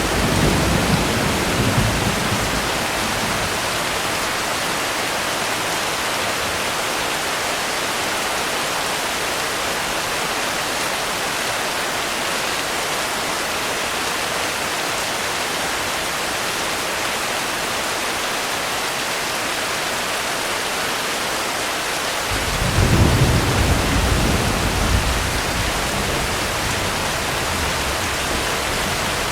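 Steady heavy rain, with low thunder rumbling in the first couple of seconds and a louder roll of thunder starting suddenly about 22 seconds in and dying away over a few seconds.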